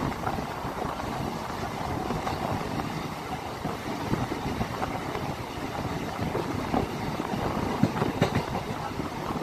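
Steady running noise of a MEMU electric local train heard from an open door on board: a continuous rumble of wheels on rail mixed with rushing air. A few sharper knocks come about eight seconds in.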